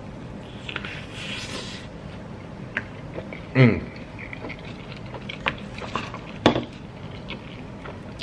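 A person eating a big bite of chicken and lamb over rice: wet chewing and mouth clicks, with a short falling "mmm" of enjoyment about three and a half seconds in and another near six and a half seconds, over a steady low background rumble.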